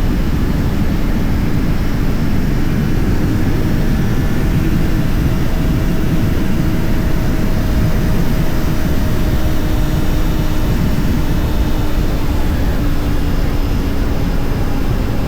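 Honda CBR600RR's inline-four engine running at a steady cruise, its pitch holding nearly level, under a heavy rush of wind noise.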